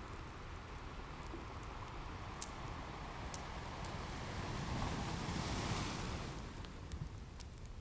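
Ocean waves washing on a shore, with one wave swelling in about halfway through and ebbing away, under the scattered pops of a crackling wood fire.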